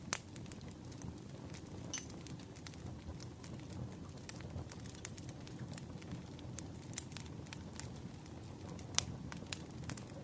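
Wood fire crackling: irregular sharp pops and snaps over a steady low rumble, with the loudest pops right at the start and about nine seconds in.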